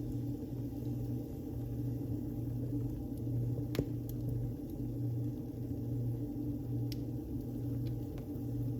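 Wood fire burning in a fireplace: a steady low rumble with a few sharp crackles and pops, the loudest about a third of the way in.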